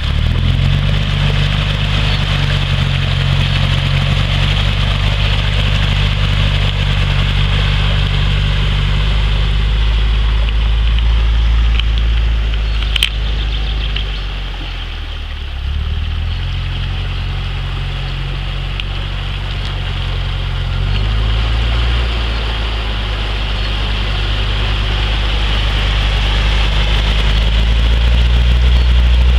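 Suzuki Vitara (Escudo) 4x4 engine running at low, steady revs as the vehicle wades through shallow water, with a constant hiss of water pushed around the wheels. The engine note shifts a couple of times and fades briefly midway. One sharp click about thirteen seconds in.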